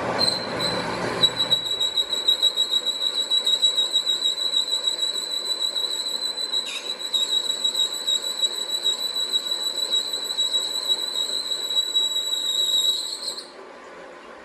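Steady high-pitched metallic squeal, a single tone with overtones and a fluttering level. It holds for about thirteen seconds, then stops shortly before the end.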